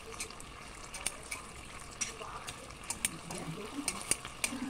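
Pork liver slices sizzling in oil in an aluminium wok, with repeated sharp, irregular clicks and scrapes as metal tongs turn the pieces against the pan.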